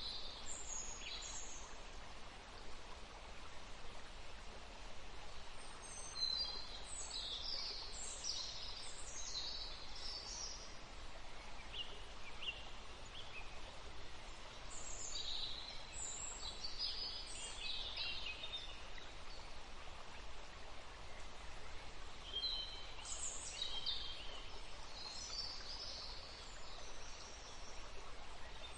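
Small songbirds singing in bouts of quick, high chirping phrases every few seconds, over a steady background hiss.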